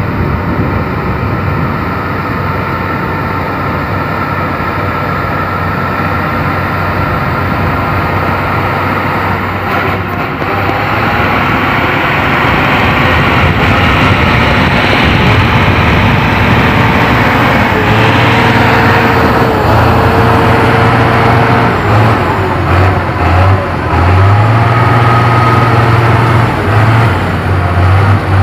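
Heavy truck engine running under load, getting louder in the second half, with a strong low drone that drops out and returns several times.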